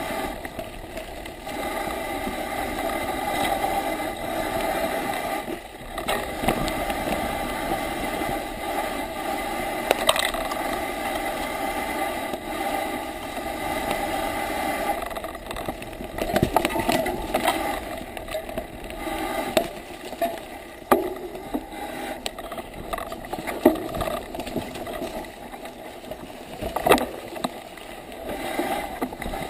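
Bicycle riding downhill on a wet forest track: a steady rushing noise from the ride with sharp knocks and rattles over bumps, which come more often in the second half.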